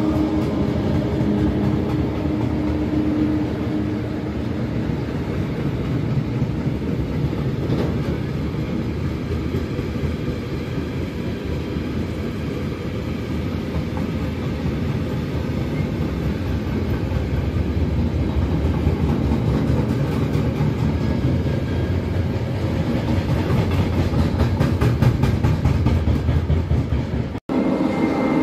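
Train running past on the rails: a steady rumble of wheels on track with rhythmic clicking over the rail joints, growing louder near the end, then cut off for an instant a second before the end.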